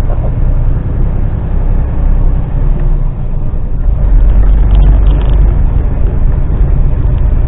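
Articulated lorry's diesel engine pulling under load up a steep hill, heard from inside the cab as a deep, steady rumble that grows louder about four seconds in.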